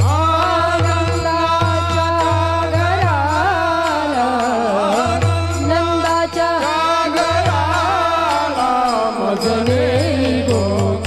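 Kirtan devotional singing: one voice holds long, ornamented notes that waver and glide, over a steady low instrumental accompaniment.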